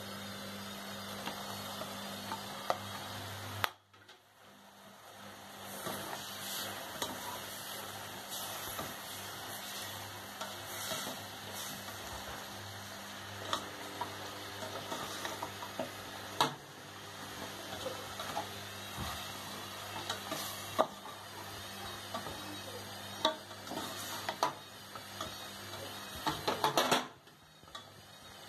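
Beef strips and onions sizzling in sauce in a stainless steel pot as a spatula stirs them, with scattered scrapes and knocks of the spatula against the pot. The sound drops out briefly about four seconds in, and there is a quick run of knocks near the end.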